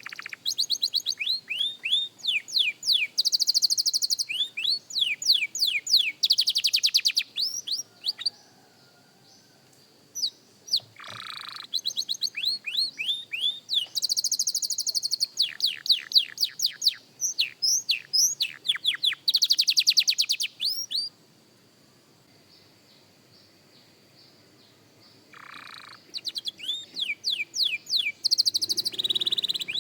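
Young domestic canary singing: phrases of rapid repeated down-sweeping notes and fast, high trills, broken by two pauses of a few seconds, one near the middle and one about two-thirds through.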